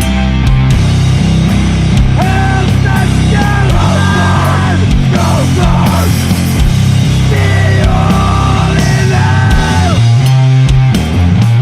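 Sludge metal: heavy distorted guitars and bass with drums, with high notes over the top that bend and slide in pitch.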